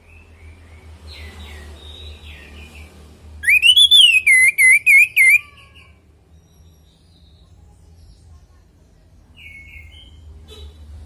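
Orange-headed thrush singing: a loud whistled phrase about three seconds in, a sharp rising note followed by a quick run of wavering notes, with softer whistled notes before it and near the end.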